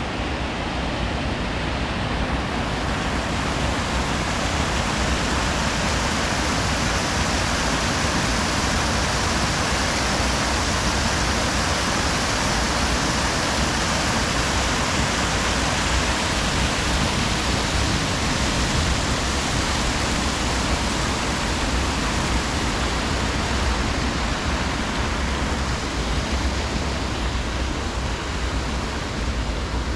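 River water rushing, a continuous, even noise that holds steady throughout.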